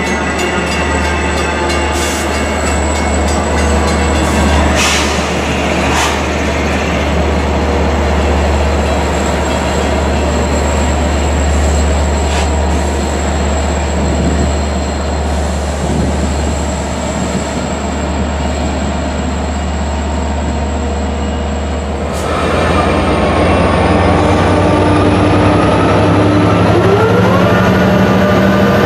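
Long Island Rail Road train running by at close range: a steady loud rumble with a deep hum and a few sharp clicks from the wheels. About two-thirds of the way through the rumble eases, and rising whining tones set in, like a train's electric drive picking up speed.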